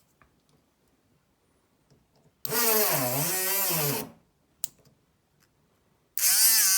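Homemade battery-powered mini drill, a small DC motor, whirring in two short runs: one about two and a half seconds in, the other starting near the end. In each run the pitch sags and comes back up. A single sharp click falls between the runs.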